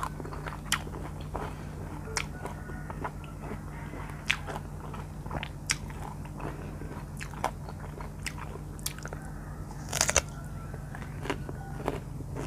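Close-miked chewing and biting of firm R2 mango flesh: irregular wet crunches and mouth clicks, the loudest cluster about ten seconds in.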